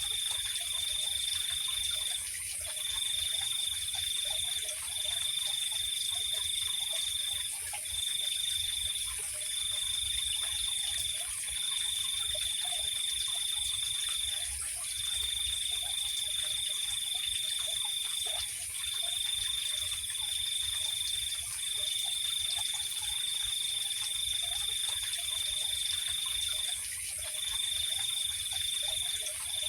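Night chorus of crickets and frogs. A steady high trill runs on, breaking off for short pauses every second or few, over a thin high hiss of more insects. Faint, scattered low calls sound beneath it.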